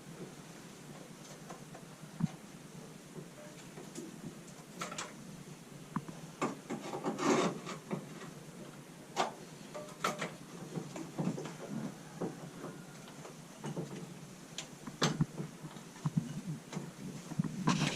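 Quiet rubbing and scraping with scattered small clicks and knocks, from things being handled; no engine running or starter cranking.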